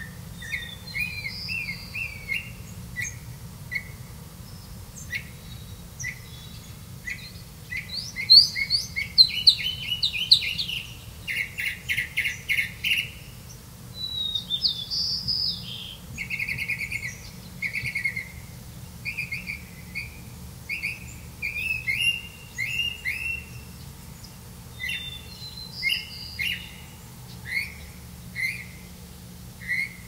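Birds chirping: a steady string of short, high chirps and whistled notes, loudest and quickest about eight to thirteen seconds in, over a low steady rumble.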